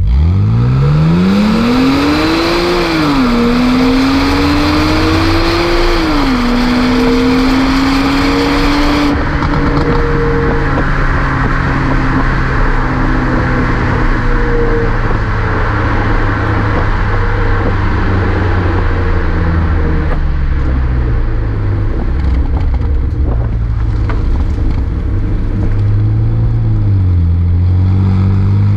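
BMW Z4 Coupé 3.0si's straight-six through a Reuter Motorsport S aftermarket exhaust, accelerating hard: the engine note climbs steeply, drops sharply at two automatic upshifts about three and six seconds in, then holds before the revs fall away slowly as the car eases off, with a brief rise and fall near the end.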